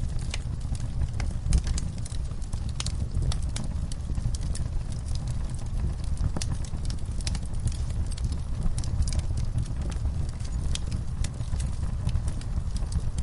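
Wood fire burning in a fireplace: irregular sharp crackles and pops over a low, steady rumble of the flames, with one louder pop about a second and a half in.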